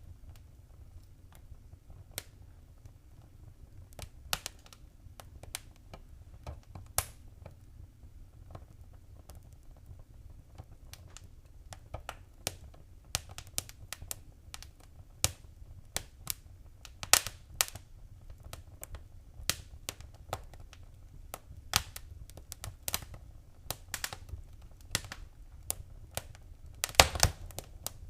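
Wood fire crackling in a fireplace: irregular sharp pops and snaps over a low steady rumble. The pops are sparse at first, come more often from about halfway, and end in a quick cluster of louder pops near the end.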